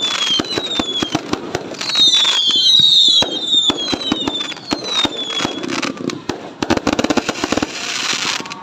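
New Year fireworks going off in rapid succession: many sharp bangs and crackling, with several high whistles that fall in pitch as they fly.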